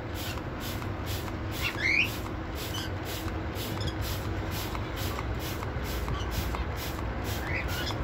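A steady low rumble with a few short, rising bird chirps; the clearest chirp comes about two seconds in and a fainter one near the end.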